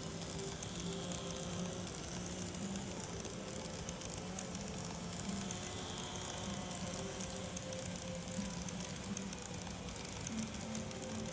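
Kato N gauge E353 series model train running over the track and through the crossover points, a steady crackly rolling noise of small wheels on rail.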